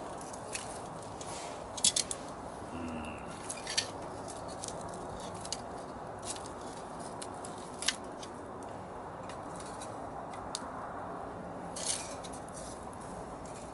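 Wood fire crackling: irregular sharp pops and snaps over a steady low hiss, with a few louder cracks spread through it.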